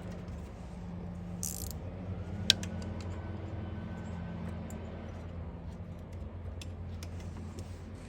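Scattered metallic clicks and clinks of hand tools against car parts, with the sharpest click about two and a half seconds in and a brief hiss a little before it, over a steady low hum.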